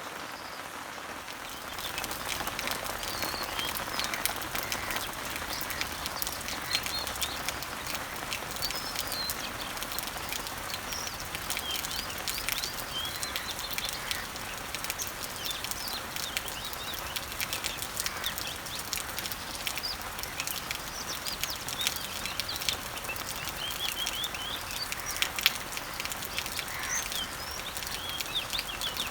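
Steady rain falling on garden leaves and trees, with many short bird chirps and calls over it; the rain grows louder about two seconds in.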